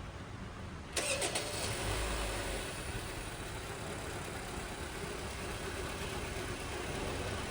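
2019 Honda Civic engine starting about a second in, with a brief crank, then running steadily at idle. It runs on a new auto tensioner, idler pulley and drive belt, with no belt or tensioner noise.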